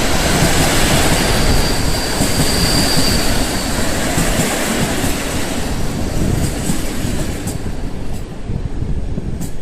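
Electric passenger train rolling past, with loud wheel-on-rail noise and a thin high wheel squeal about two seconds in. It fades off slightly in the second half.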